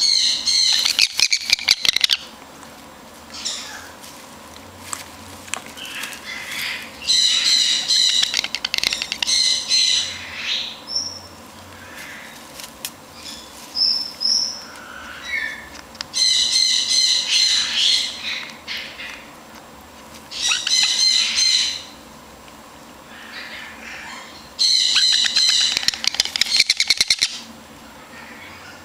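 Young double yellow-headed Amazon parrot calling in about five harsh, rapidly pulsed bouts of a second or two each, with a couple of short high whistles in between.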